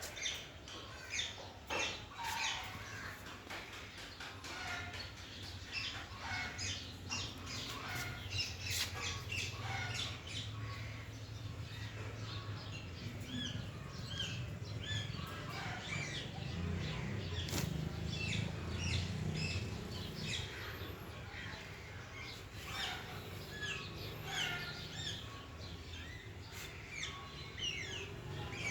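Baby ringneck and alexandrine parakeets chirping, a rapid scatter of short, high calls, over a low steady hum.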